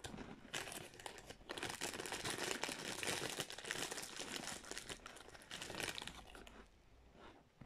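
A person chewing a mouthful of raw cornstarch close to the microphone: a dense, crackly crunching that starts suddenly and fades out near the end.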